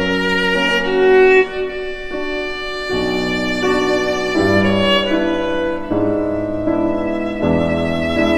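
Background music: a slow violin melody with long held notes over a sustained accompaniment.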